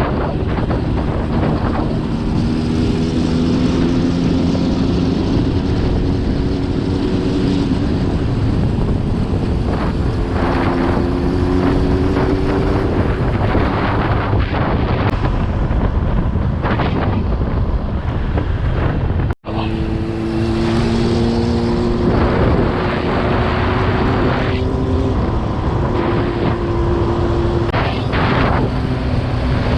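Motorcycle engine running on the move, its pitch rising and dropping in stretches, under heavy wind noise on the microphone. The sound cuts out for an instant about two-thirds of the way through.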